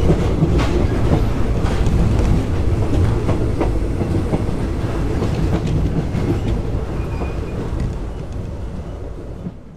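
Passenger train running along the track, heard from a carriage window: a steady rumble with irregular clicks of the wheels passing over rail joints, fading away near the end.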